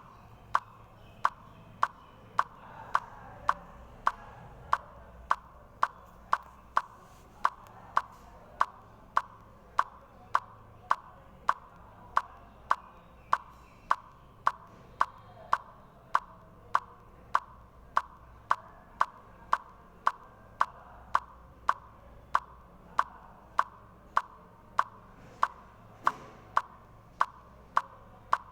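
A clock ticking steadily, with sharp, evenly spaced ticks a little under two a second.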